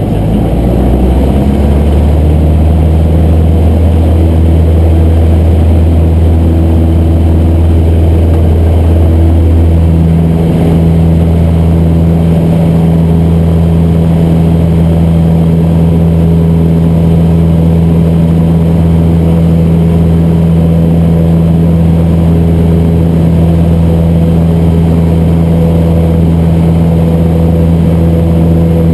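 Cessna 150's Continental O-200 four-cylinder engine and propeller droning loudly inside the cockpit. The pitch rises over the first second or so as power comes up, then holds steady, with a shift in tone about ten seconds in.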